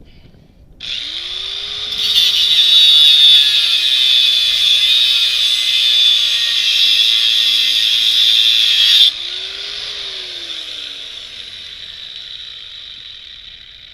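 Angle grinder with a cut-off wheel cutting through the bike's steel frame: the motor spins up, the loud, harsh cut lasts about seven seconds and stops suddenly, then the motor briefly speeds up once free of the cut and winds down with a falling pitch.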